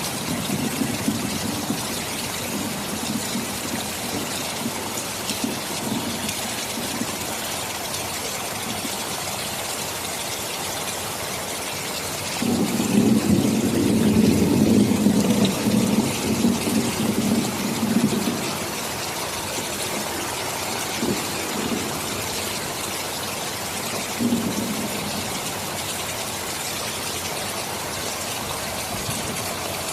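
Steady heavy rain hissing throughout, with a low rumble of thunder that swells for about five seconds near the middle and fainter, shorter rumbles at the start and again later.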